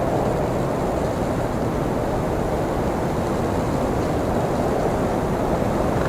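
Blizzard wind blowing steadily, a low, even rushing noise with no gusts or breaks standing out.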